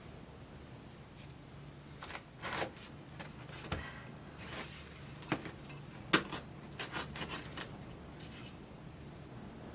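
Small hard objects being handled: an irregular series of light clicks and clinks, the sharpest about six seconds in.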